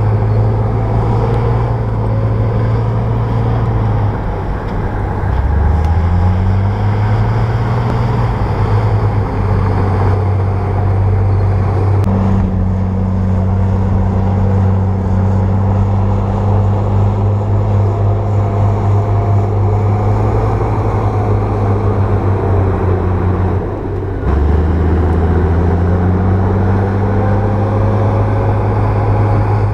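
Bulldozer's diesel engine working steadily under load. It eases off briefly about four seconds in and again near the end, each time climbing back up in pitch as it is throttled up again.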